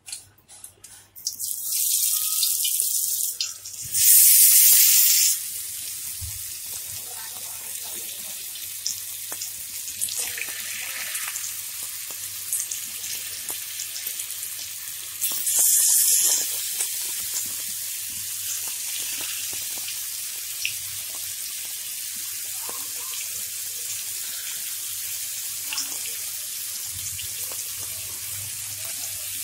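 Marinated chicken tikka skewers sizzling in oil on a hot tawa: a steady hiss, with two louder surges of sizzle about 4 and 16 seconds in as more skewers are laid on.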